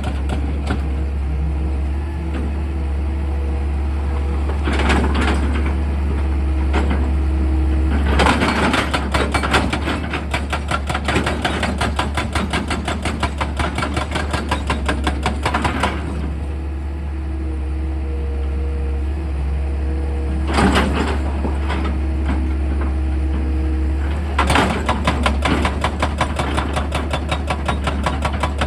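Excavator engine running under a steady low hum while a drill attachment hammers in a rapid, even rhythm, with several louder, noisier surges along the way.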